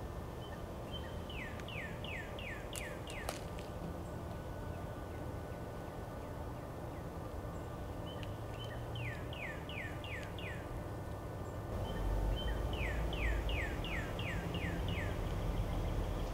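A songbird singing a phrase of about six quick down-slurred whistles, three times, over a steady low rumble that gets louder about three-quarters of the way through.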